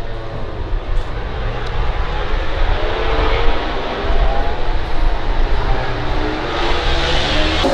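MotoGP racing motorcycle engines at high revs on track, one rising in pitch as it accelerates and getting louder toward the middle.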